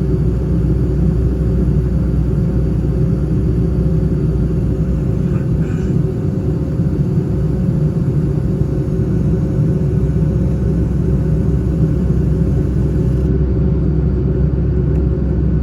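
Boeing 757-200 engines and airflow in the climb after takeoff, a steady low rumble heard inside the passenger cabin with a faint constant hum over it.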